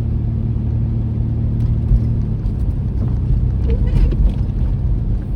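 Car driving on a wet road, heard from inside the cabin: a steady engine and tyre rumble. A low hum in it drops away a little over two seconds in.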